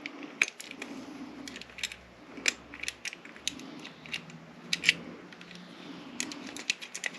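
Small metal lock parts clicking and tapping against each other as a lockset is fitted back together by hand after rekeying: irregular light clicks with a few sharper ones.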